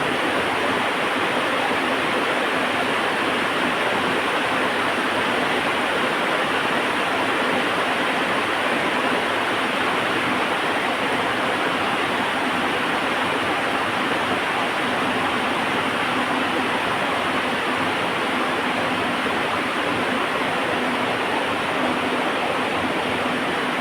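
Heavy rain falling in a steady, even hiss, with no thunder or crackle standing out.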